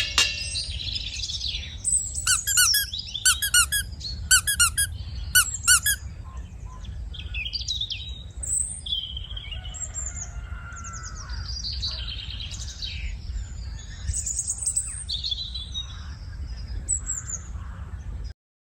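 Birds chirping and singing: short high whistled notes, with a quickly repeated phrase for a few seconds about two seconds in, over a steady low rumble. It cuts off near the end.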